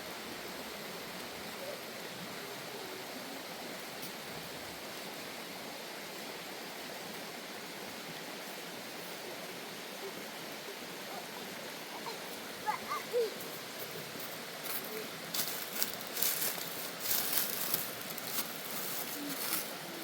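A steady, even rushing noise, with a few faint chirps near the middle and a run of sharp crackling clicks over the last few seconds.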